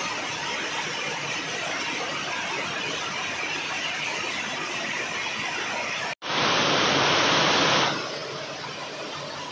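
Steady hiss of falling rain. About six seconds in, the sound cuts out for an instant, then comes back louder for about a second and a half before settling to a slightly quieter hiss.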